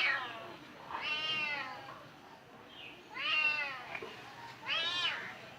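Domestic cat meowing repeatedly: three drawn-out meows, each rising and then falling in pitch, roughly a second or more apart.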